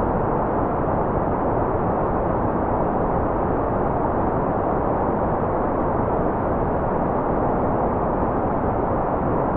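Steady, unchanging generated white noise, a loud even rush with most of its energy below about 2 kHz and little high hiss.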